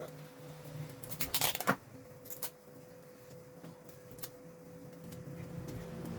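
Handling noises: a short rustle about a second in and a few light clicks after it, over a faint steady hum.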